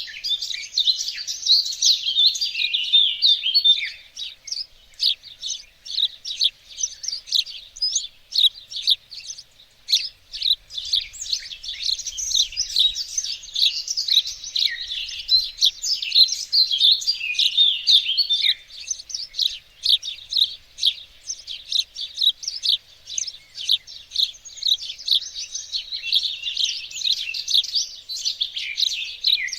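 Several songbirds singing and chirping at once, a dense chorus of quick, high-pitched notes and trills.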